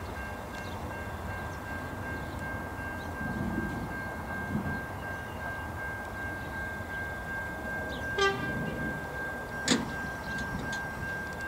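V/Line VLocity diesel multiple unit approaching slowly, with a low engine and rail rumble and a thin steady high tone throughout. There is a brief pitched note about eight seconds in and a sharp metallic knock about a second and a half later.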